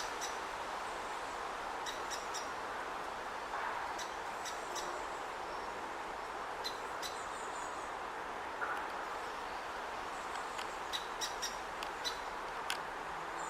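Great spotted woodpecker chick calling from the nest hole while it waits to be fed: short, sharp, high calls in scattered clusters, coming more often near the end, over a steady background hiss.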